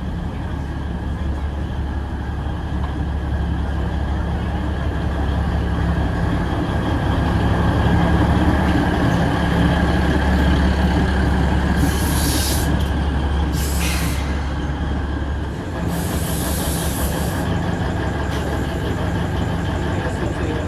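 An Alishan Forest Railway train pulling into the station, its diesel locomotive's engine running with a steady low drone. Three short high hisses come through the middle part, from the brakes or wheels as the train slows.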